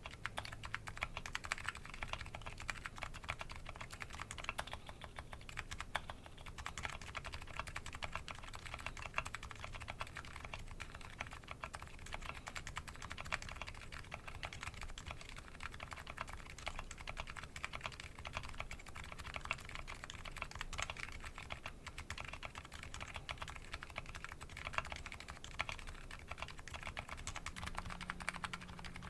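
Continuous typing on a Nuxros Kraze custom keyboard fitted with MetaKeebs MetaPulse electrocapacitive switches: a dense, uneven stream of keystroke clicks and clacks.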